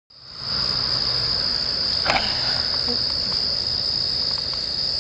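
Calling insects: a loud, steady high-pitched trill with no break, with a single sharp click about two seconds in.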